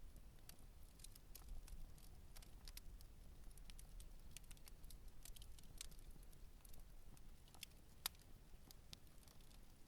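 Wood campfire burning gently, crackling with frequent small sharp pops and one louder snap about eight seconds in, over a low steady rumble.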